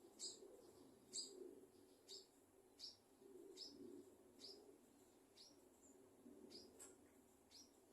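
Faint, short, high chirps from a small bird, repeated about ten times, roughly once every second, over a low, uneven background murmur.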